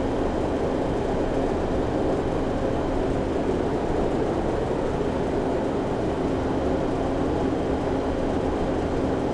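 Commercial reach-in refrigerator's condensing unit running steadily, compressor and condenser fan, with a steady hum over a fan whoosh. The compressor has just cut in on its low pressure switch at about 25 psi, on a system low on R-404A charge.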